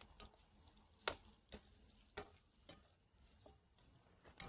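Crickets keeping up a steady high, thin trill, with about seven short sharp clicks scattered through it.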